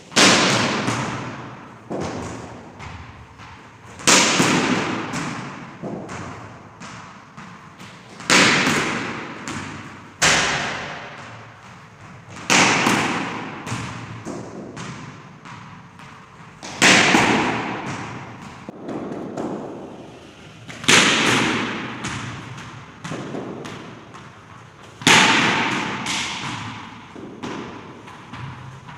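Cricket bat striking the ball in repeated practice shots, a sharp crack about every four seconds that rings on and fades. A quieter knock comes between most of the strikes.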